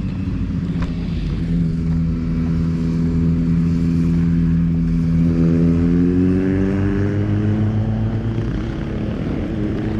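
Suzuki GSX-S1000's inline-four engine through a Yoshimura R-11 slip-on exhaust, running at a steady pitch for about five seconds, then rising gradually under acceleration until the revs drop near the end, as at a gear change.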